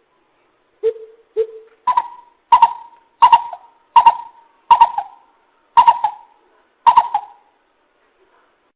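Coucal (bìm bịp) calling: two low hoots, then an even series of about eight hollow hooting notes, roughly one every 0.7 s, stopping about a second and a half before the end.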